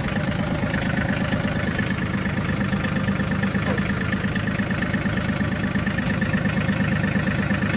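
John Deere diesel tractor engine idling steadily just after a cold start, being left to warm up.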